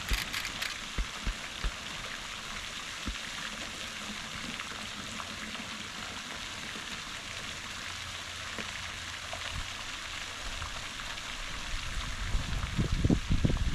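Steady outdoor rushing hiss, with wind buffeting the microphone in deep gusts near the end.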